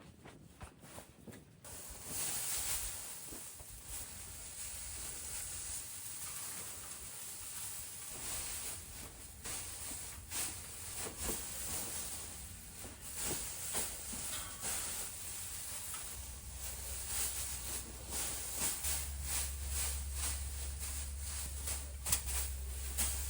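Straw rustling and crackling as it is thrown and stacked, in many short crisp bursts. A steady low rumble joins in about two-thirds of the way through.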